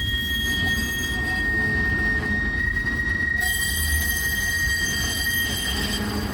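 Tram running on the rails: a low rumble with a steady high-pitched tone held over it.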